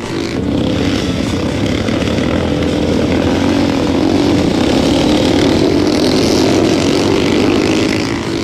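Several small-capacity motorcycle engines running hard together, a loud, steady buzzing roar that swells midway and eases a little near the end.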